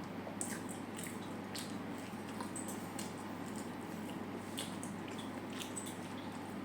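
Close-miked chewing of food: scattered short wet squishes and mouth clicks over a steady low hum.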